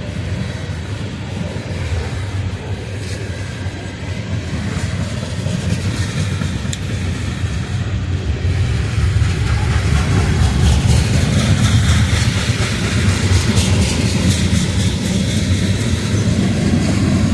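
Freight train of coal cars rolling past, a steady rumble of steel wheels on rail with rapid clicking. It grows louder about halfway through.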